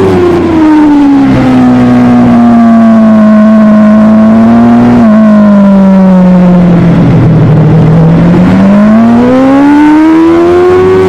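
Superbike engine running hard, its note dropping in a couple of steps and falling away to its lowest about seven to eight seconds in, then climbing steadily again as the bike accelerates.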